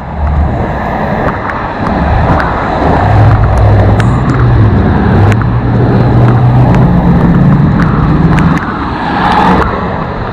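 Motor vehicle passing close by on the road: its engine note rises steadily over several seconds, then falls away near the end, over a loud rushing noise.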